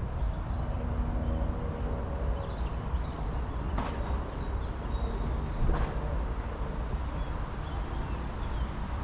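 Small songbird calling: a quick trill of short high notes about three seconds in, then a few more chirps. A steady low rumble runs underneath, and there are two sharp ticks.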